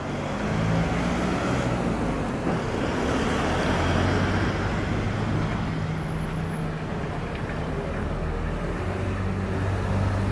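A steady low mechanical hum with a continuous rushing noise, from a running motor.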